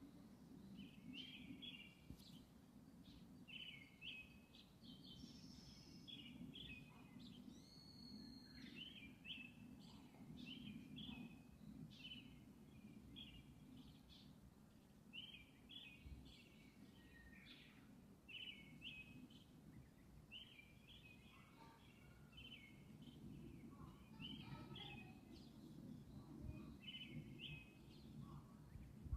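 Faint outdoor background with a small bird chirping in short, repeated phrases about once a second, over a steady low rumble.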